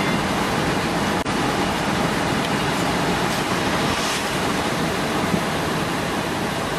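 Steady rushing noise on board a car ferry, even throughout, with one faint click about a second in.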